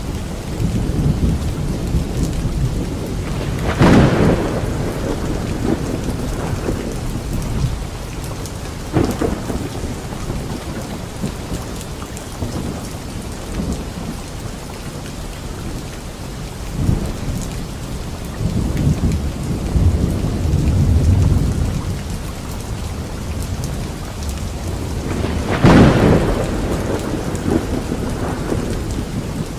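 Steady rain falling on leaves in a light thunderstorm, with thunder: a sharp crack about four seconds in and another near the end, lighter cracks between, and a low rolling rumble in the middle.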